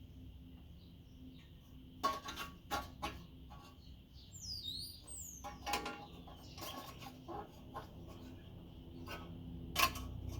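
Scattered sharp knocks and clinks of metal tools and parts being handled on a workbench, the loudest near the end, over a steady faint hum. A few quick high chirps of a bird about halfway through.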